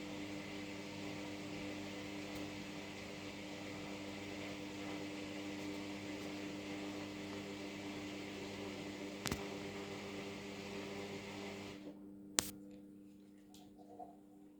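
Haier HW60-10636A washing machine running with a steady mechanical hum, then cutting out about twelve seconds in, followed by a sharp click.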